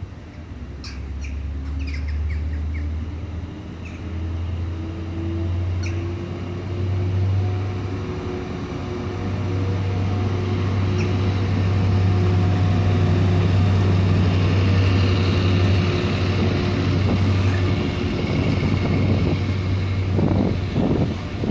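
Locomotive engine running with a low steady hum and a tone that rises through the first several seconds as it builds up power. It grows louder toward the middle. A few short high squeaks sound in the first six seconds.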